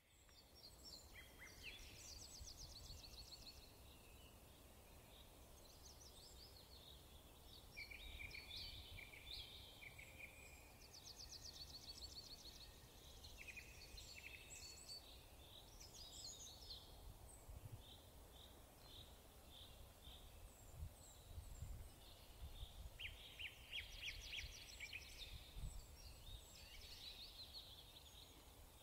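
Faint chirping and fast trilling of several small birds, in overlapping phrases, over a low background rumble.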